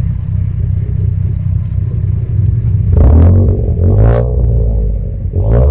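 A modified 1-litre hatchback's engine idling, then revved: the engine note climbs and falls about three seconds in, with a sharp crack from the exhaust near the top, and starts climbing again near the end.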